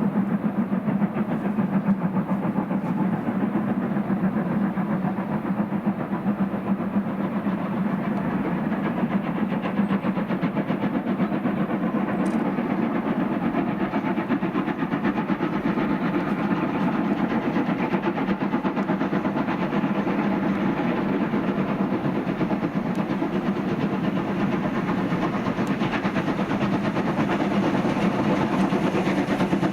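A train running, a steady, unbroken rumble.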